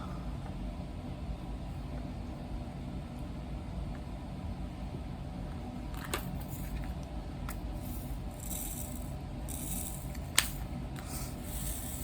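Small plastic pieces rattling and clicking, like diamond painting drills being shaken and picked from a tray, with one sharper click about ten seconds in, over a steady low hum.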